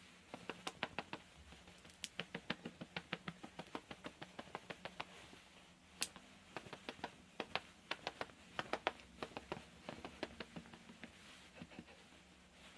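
Light, quick tapping in runs of several taps a second, with a few sharper single ticks: makeup being patted and dabbed on close to the microphone.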